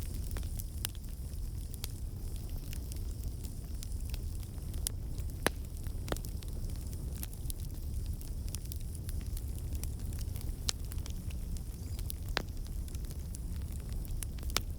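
Campfire burning with a steady low rumble and scattered sharp pops and crackles, a few louder snaps among them.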